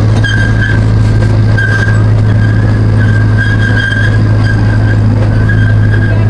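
Miniature zoo train running along its track: a steady low drone with a thin high tone that comes and goes.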